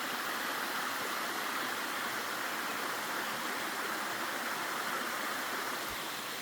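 Mountain valley stream running: a steady rush of flowing water.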